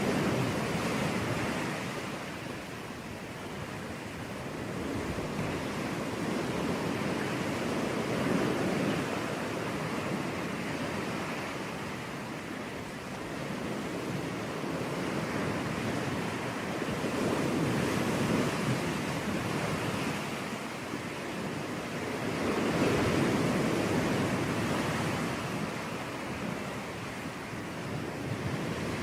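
Sea waves breaking on a beach, the surf swelling and easing every several seconds as each wave comes in, with some wind.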